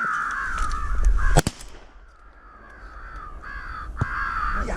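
Crows cawing in rapid repeated calls, broken by one loud shotgun shot about a second and a half in; the cawing drops away briefly after the shot and builds back up near the end.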